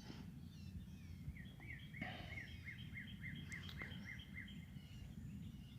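Wild songbirds singing: a few whistled phrases, then one bird repeating a quick series of short chirps, about four a second, for roughly three seconds. A steady low rumble runs underneath.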